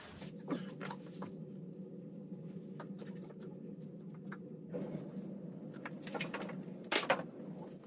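Faint clicks and taps of tools and wood trim being handled over a steady low hum, with two sharper clacks close together about seven seconds in.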